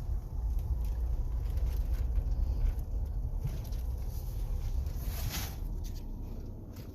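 Steady low rumble of a car driving, heard from inside, with a brief hiss about five seconds in.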